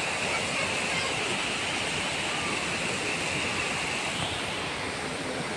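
Heavy monsoon downpour: torrential rain pouring steadily, a continuous rushing hiss.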